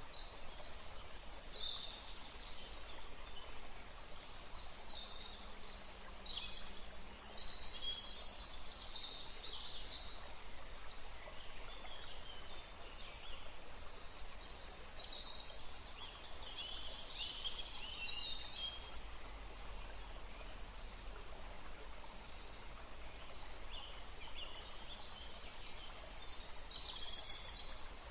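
Wild birds chirping and calling, many short high chirps and whistles overlapping, over steady outdoor background noise. The chirping comes in busy spells, thinning out for a few seconds past the middle.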